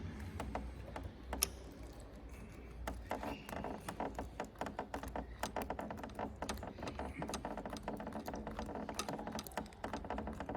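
A loosened handlebar bolt being unscrewed the rest of the way by hand: a dense run of light metallic clicks and ticks, starting about three seconds in.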